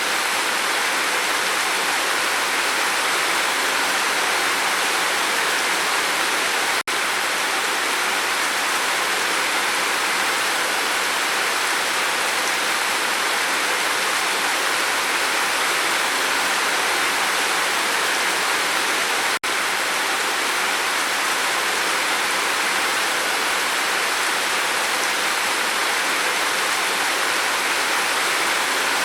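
Steady, even rain on a roof, a dense hiss of drops with no single drop standing out. The sound cuts out for an instant twice, about 7 and 19 seconds in.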